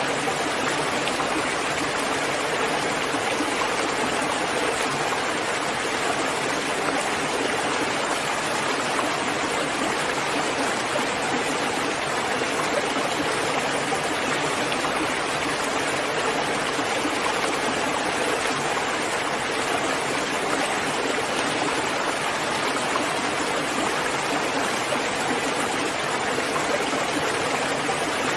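Steady rain falling, an even rushing hiss with no single drops standing out.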